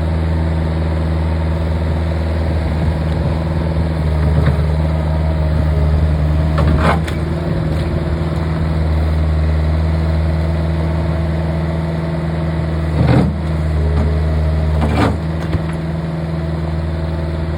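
Bobcat skid-steer loader's diesel engine running steadily, with three sharp knocks, one partway through and two close together later on.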